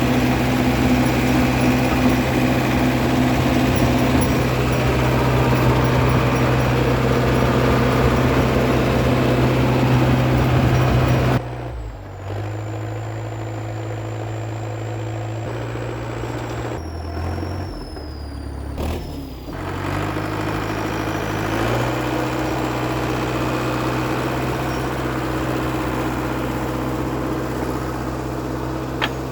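International Harvester TD8E crawler bulldozer's DT-239 diesel engine running steadily while the dozer drives in second gear. About eleven seconds in the sound drops abruptly, and the engine note shifts several times before steadying again.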